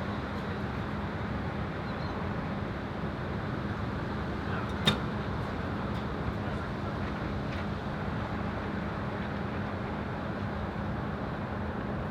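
Steady wind noise buffeting the microphone, with one sharp click about five seconds in.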